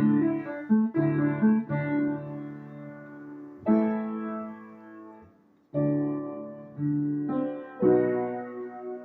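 Piano accompaniment playing sustained chords, each struck and left to ring and fade. It breaks off briefly about five and a half seconds in, then goes on.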